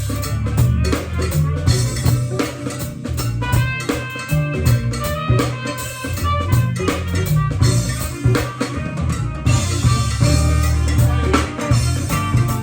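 Band music: a drum kit keeping a steady beat over bass and guitar.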